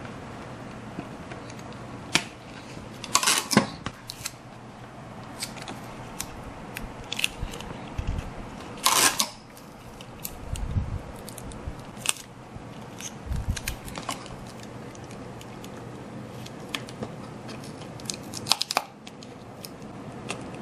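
Hands working on a model ship: irregular clicks, snips and rustles of scissors and small parts being cut and handled, with two louder rustling bursts about 3 and 9 seconds in and a few soft thumps, over a faint steady hum.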